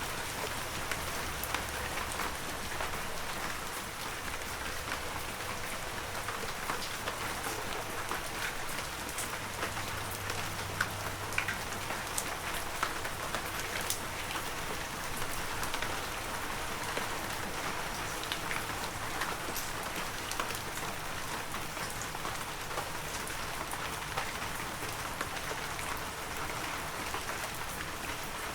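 Heavy rain falling steadily in a forest, an even wash of rain with many distinct drops ticking through it.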